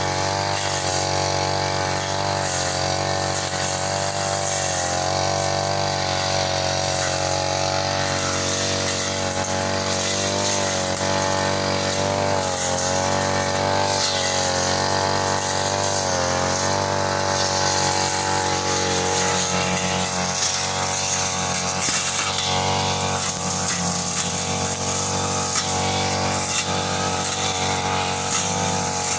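Small two-stroke brush cutter engine running continuously, its pitch wavering up and down as the throttle and cutting load change.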